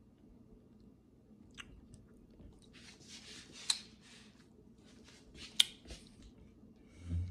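Someone crunching and chewing potato chips: two bursts of crunching a couple of seconds apart, each with one sharp crack. A low thud comes just before the end.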